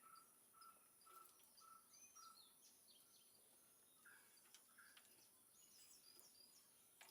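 Near silence with faint birds chirping: a short repeated note about three times a second for the first two seconds, then scattered higher chirps, over a steady high-pitched hiss.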